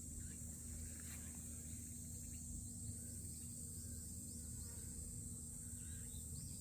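A steady, high-pitched chorus of crickets and cicadas, with a low rumble beneath.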